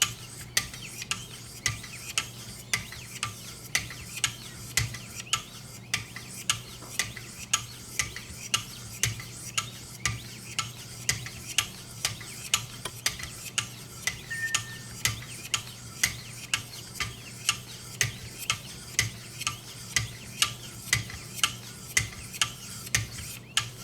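1,000-grit sharpening stone on a guided sharpening system stroking along the VG-10 blade of a Spyderco Impala, in even short scrapes about twice a second, while the edge is refined towards a mirror polish. A steady low hum runs underneath.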